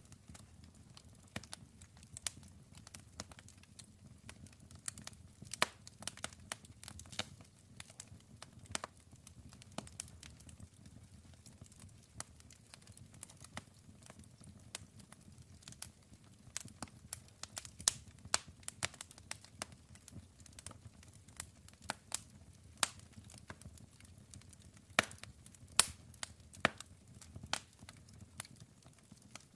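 Wood fire burning, with sharp, irregular crackles and pops over a low rumble of flame.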